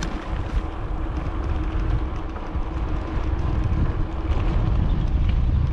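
Wind buffeting the microphone while cycling, a steady low rush that slowly grows louder.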